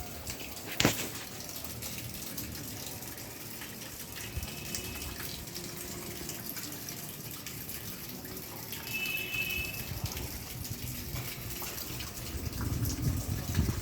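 Steady rush of running water, with a sharp click about a second in.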